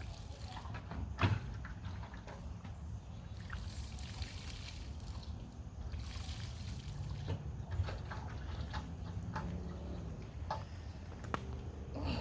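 Water trickling and splashing as hands are washed, with scattered small clicks and one sharp knock about a second in.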